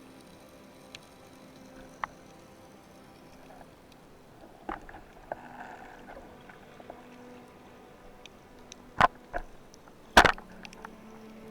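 Scattered sharp knocks and clicks, with two loud knocks near the end.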